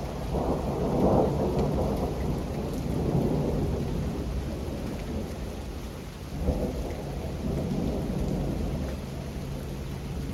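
Thunder rolling over steady rain. One long rumble builds just after the start and dies away over a few seconds, and a second roll begins about six and a half seconds in.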